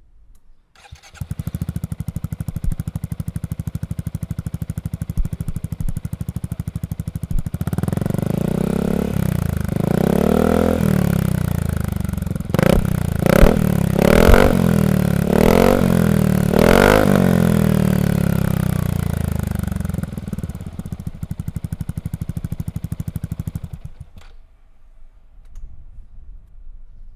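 Yamaha XMAX 250 scooter's single-cylinder engine through a ProSpeed aftermarket exhaust: it starts about a second in and idles, is revved up and down, then given about five quick throttle blips, settles back to idle and shuts off near the end.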